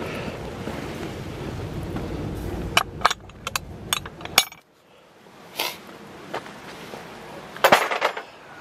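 Wind buffeting the microphone as a low rumble, breaking off after about three seconds into a quick run of sharp clicks and knocks, with a few more clicks and a louder cluster of them near the end.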